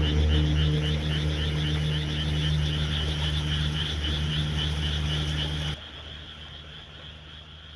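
A small blower fan drones steadily, with a rapid, high-pitched pulsing trill over it. The drone cuts off suddenly about two-thirds of the way in, and the trill fades away.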